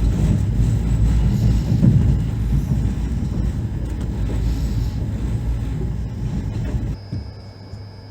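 Passenger train in motion: a steady low rumble and rattle of the running train. About seven seconds in it cuts off abruptly to a much quieter steady hum.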